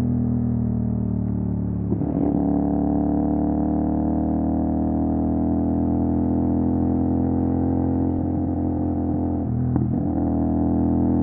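CFMOTO 450 SR parallel-twin engine running through an MSH G6 full-system exhaust under way, with the engine note rising slowly and steadily. The note breaks briefly about two seconds in and again near the end.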